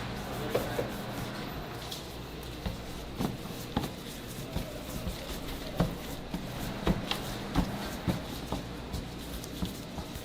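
Irregular knocks and clatter of dough and utensils being handled during food preparation, over a steady low hum.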